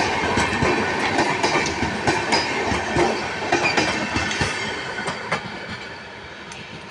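A train's wheels clattering over the rail joints as the coaches roll past, the clatter growing fainter as the train moves away.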